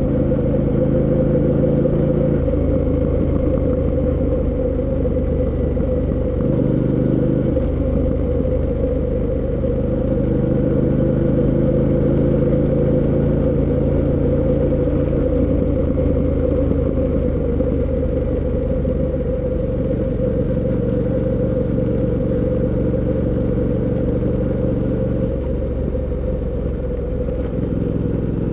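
Fantic Caballero 700 Scrambler's 689 cc parallel-twin engine running steadily under way, its pitch changing briefly about six seconds in and again near the end.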